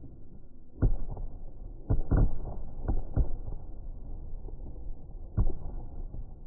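Fireworks shells bursting: about six booms over some five seconds, each trailing off in a short rumble, with several coming in quick succession a couple of seconds in.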